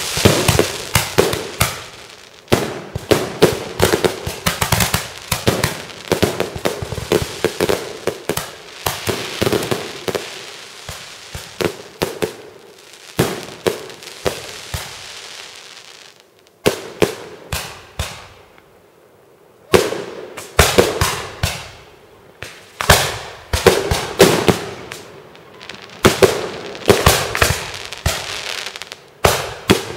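Fireworks display: rapid volleys of aerial shell bursts, sharp bangs in quick succession, with a stretch of crackling hiss in the middle. About two thirds of the way through there is a brief lull before the bangs resume.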